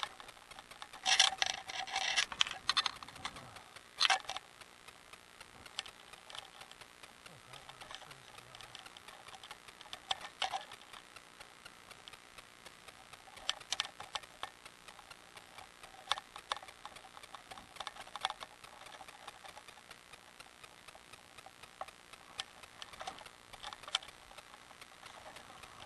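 Bicycle ticking and rattling as it rolls: a run of small clicks, with louder clusters of knocks in the first few seconds and a few more scattered later.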